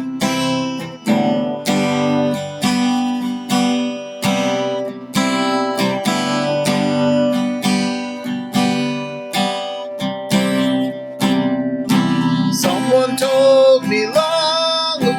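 Acoustic guitar strummed in a steady rhythm, playing a song's intro chords. A voice starts singing the first line near the end.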